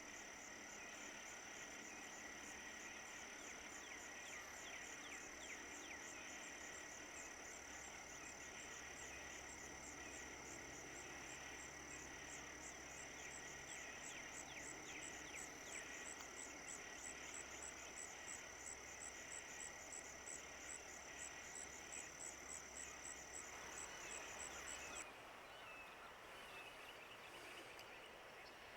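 Faint woodland dawn ambience: a steady high insect trill with a pulsing chirr above it, and birds chirping. The trill cuts off suddenly near the end, leaving fainter ambience.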